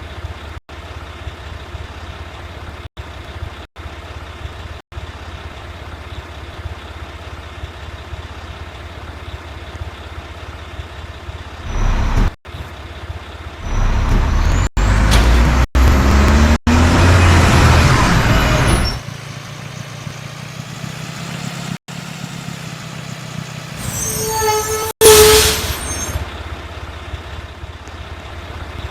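Mack rear-loader garbage truck's diesel engine running steadily, then revving loudly for about five seconds near the middle with its pitch rising, settling back, and a short loud air hiss a few seconds before the end.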